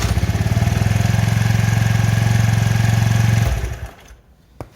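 Kymco Agility 50cc four-stroke scooter engine idling steadily with an even pulse, freshly repaired after a broken variator, torn drive belt and an oil change. It is switched off about three and a half seconds in and runs down, followed by a faint click near the end.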